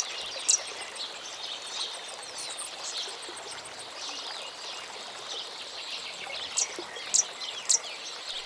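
Small birds chirping over a steady background hiss of outdoor ambience, with many faint quick high chirps and a few sharp, piercing calls, one about half a second in and three in a row near the end.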